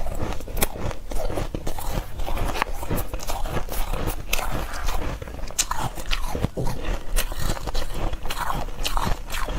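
Refrozen powdery ice being bitten and chewed in big bites: a continuous run of soft, irregular crunches and crackles.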